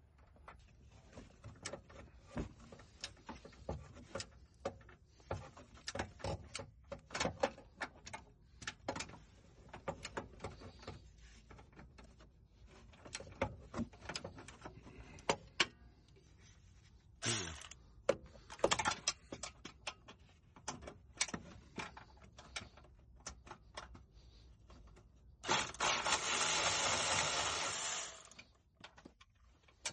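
Irregular creaking and clicking from a Hyundai Grandeur HG's front suspension, the squeak the owner traces to worn stabilizer-bar (sway bar) bushings. Near the end a loud hissing noise runs for about three seconds.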